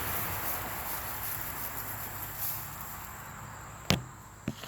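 Sawdust being scattered by hand into a chicken pen: a dry rustling hiss that fades away, then a sharp knock about four seconds in and a smaller one near the end.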